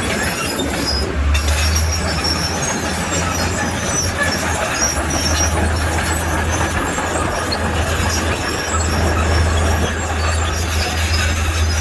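Crawler bulldozer working: a steady diesel engine drone with the high, scattered squeaking of its steel tracks.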